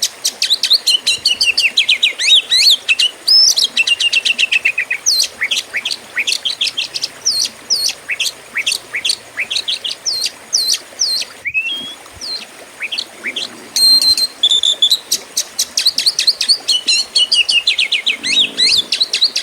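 Oriental magpie-robin (kacer) singing loudly in the aggressive 'fighter' style: long, varied runs of fast repeated whistles and chirps that slide up and down, with a brief break about eleven seconds in.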